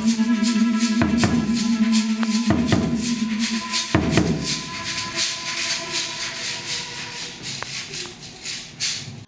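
An ensemble of pandeiros playing a fast, even jingle rhythm with a few deep drum strikes and a held low note at first, then gradually fading out as the piece ends.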